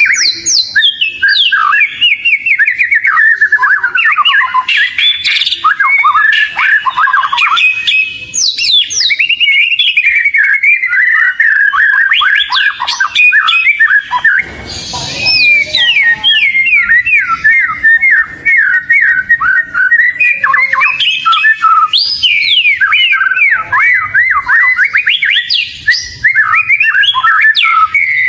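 Oriental magpie-robin (kacer) singing loud and non-stop: a fast, varied run of chirps, whistled glides and falling trills, with a brief harsh, raspy note about halfway through.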